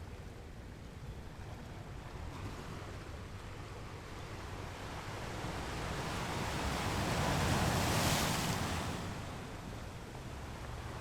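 Ocean surf: a steady wash of waves, with one wave building up to break about two-thirds of the way through and then washing back down.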